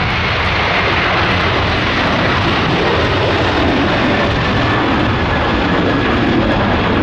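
Jet airliner departing at take-off power: a loud, steady engine noise with a faint high whine that slowly drops in pitch.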